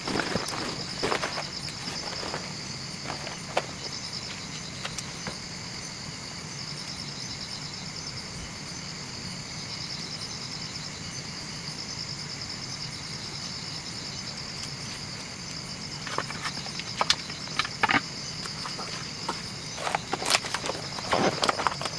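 Steady high-pitched insect chorus. Scattered sharp knocks and clicks come in the first couple of seconds and again over the last several seconds.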